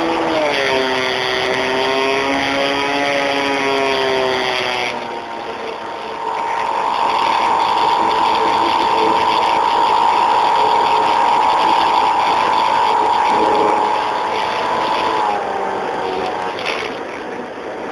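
Electric motor and propeller of a radio-controlled Art-Tech Cessna model plane, recorded from on board: a whine that wavers and dips in pitch for the first few seconds, then holds a steady, louder high whine as the throttle goes up, and drops in pitch near the end as it eases off.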